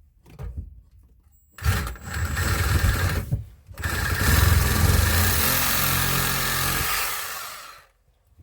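An electric power tool running in two long bursts, the second trailing off near the end.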